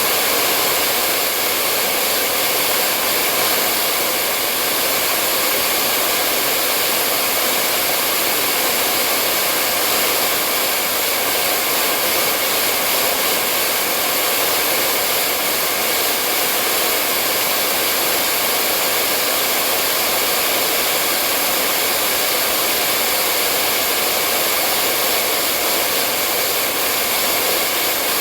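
Hair dryer blowing steadily, a constant airy hiss with a faint hum from its motor and fan.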